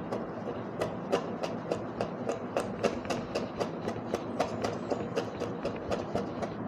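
Knife chopping ginger on a cutting board: quick, even strokes, about three to four a second.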